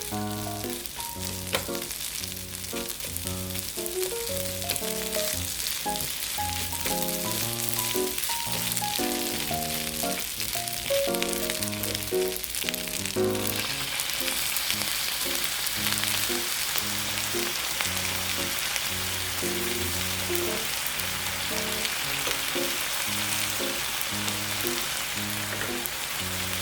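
Food frying in hot oil in a pan, a steady sizzle that grows louder about halfway through. Background music with a simple melody plays underneath.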